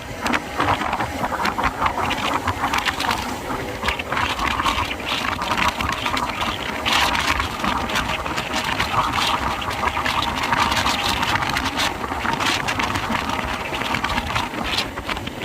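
Motorcycle riding on a highway: wind buffets the microphone over the steady drone of the running engine.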